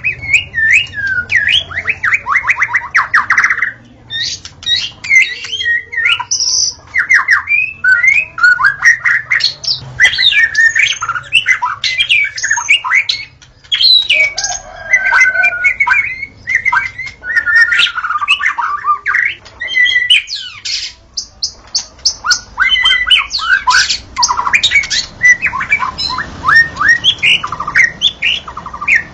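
White-rumped shama (murai batu) singing a loud, varied song of whistled notes and rapid trills, phrase after phrase with only brief pauses.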